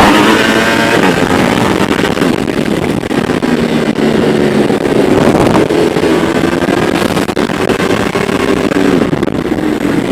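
Several Ducati motorcycle engines running together, their pitch rising and falling as they pull along in a group.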